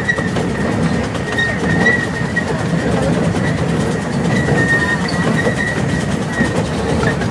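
Open passenger cars of a miniature steam train rolling along the track with a steady rumble and clatter. A thin, high wheel squeal comes and goes several times as the wheels grind round the curve.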